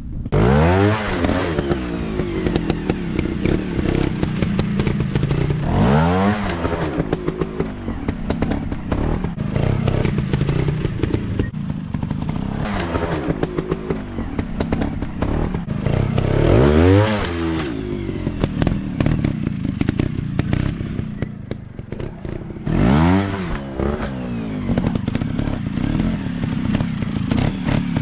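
Small trail dirt bike engine running, revved up and let fall back about five times, with some clattering from riding over rough ground.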